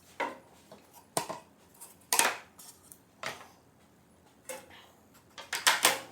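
Irregular clinks and clatters of hard objects being handled in the workshop: about six separate knocks, with a quick run of three near the end.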